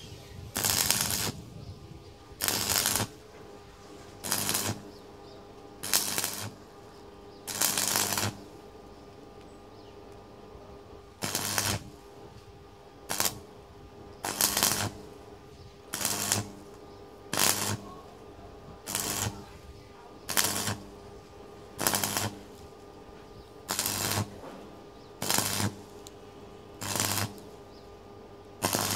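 Metal being worked by hand in regular scraping strokes, about one every second and a half, each lasting about half a second, over a faint steady hum.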